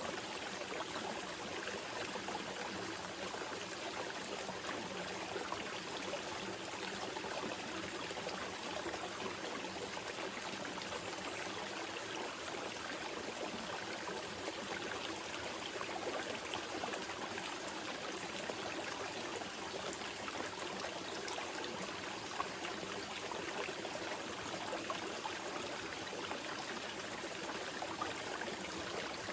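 Small river flowing gently: a steady, even rush and trickle of running water.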